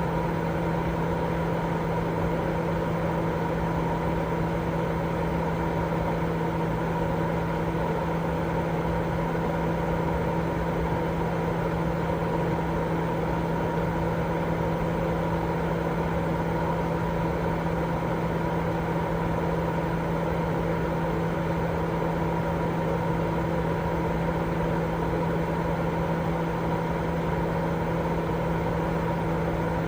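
Baby-sleep white-noise track: a constant, even hiss, fuller in the lows and mids than the highs, with a steady hum running through it and no change at all.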